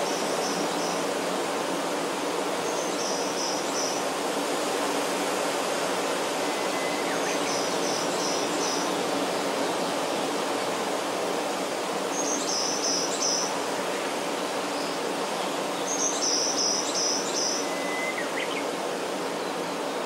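A small songbird repeating a quick phrase of three or four high notes about every four seconds, five times, the later phrases loudest, over a steady rushing background noise. A fainter thin whistle sounds twice.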